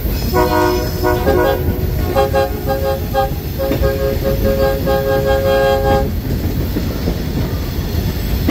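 Train horn sounding a series of blasts over the low rumble of a train. Two blasts of one chord come first, then a lower chord in several short toots and longer blasts, stopping about six seconds in.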